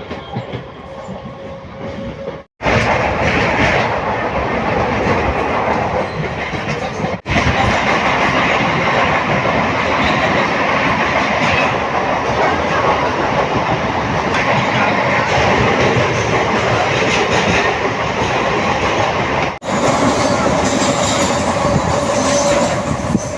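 Running noise of a MEMU electric passenger train in motion, loud and steady, broken off abruptly three times by cuts in the recording.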